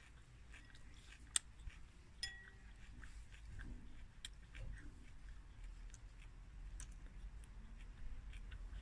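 Quiet chewing of a mouthful of instant noodles. A metal fork makes scattered faint clicks against a ceramic bowl, with one sharp clink about a second and a half in and a short ringing one soon after.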